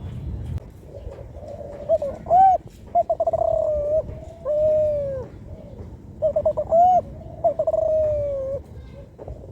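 Young Kelantan spotted dove (tekukur), about four months old, cooing: two phrases about four seconds apart. Each phrase is a short rising coo, a quick stuttering run of notes, then a long coo that falls away. This is a juvenile still learning to shape its song.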